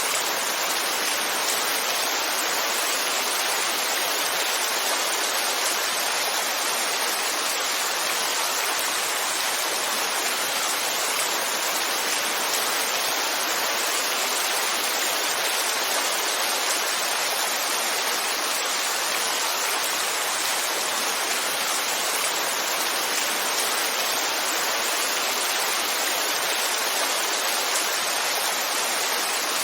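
Heavy rainfall, a dense steady hiss without separate drops standing out.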